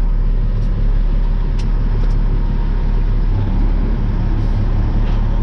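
Dump truck's diesel engine running steadily, a low rumble heard from inside the cab, with a few light clicks in the first couple of seconds.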